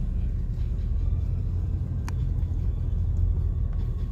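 Steady low rumble of a vehicle driving, engine and road noise, with a single short click about two seconds in.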